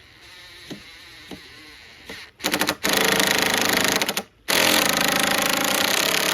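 Cordless impact driver hammering as it drives a screw: a short burst, then two longer runs of rapid rattling impacts with a brief stop between them.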